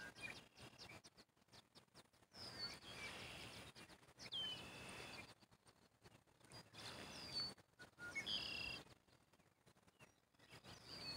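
Faint bird calls: scattered short chirps and whistles that drop sharply in pitch, over a soft outdoor hiss that rises and falls in stretches.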